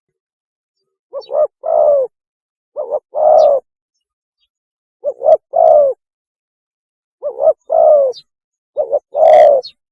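Spotted dove cooing its mating call. The three-note phrase, two short coos and then a longer falling coo, repeats five times, about every two seconds.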